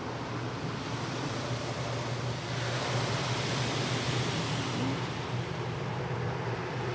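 Car wash rinse water spraying onto the car, heard from inside the cabin: a steady rushing hiss that swells in the middle and eases off near the end, over a steady low hum.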